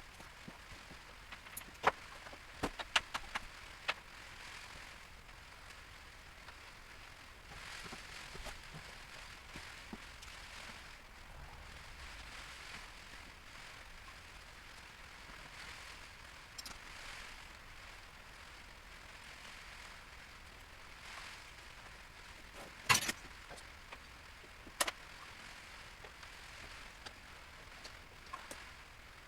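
Scattered sharp clicks and knocks of parts and tools being handled: a quick cluster a couple of seconds in, the loudest knock about two-thirds of the way through, then another, over a faint steady hiss.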